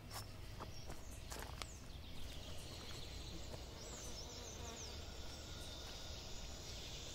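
Faint outdoor ambience with insects buzzing, and a few soft clicks in the first couple of seconds.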